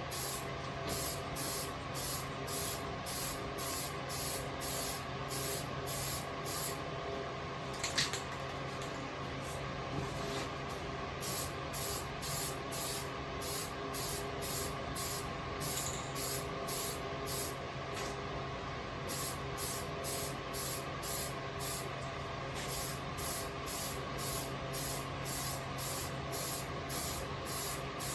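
Aerosol spray paint can hissing in short bursts, about two a second, with a few pauses between runs, over a steady hum. A sharp click about eight seconds in.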